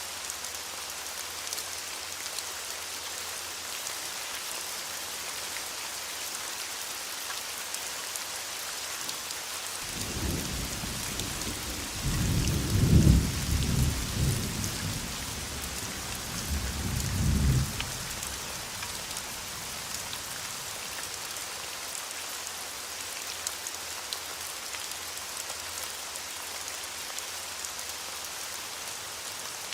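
Steady rain hissing on a surface, with a rolling rumble of thunder that builds about a third of the way in, peaks twice, and fades out before the halfway point.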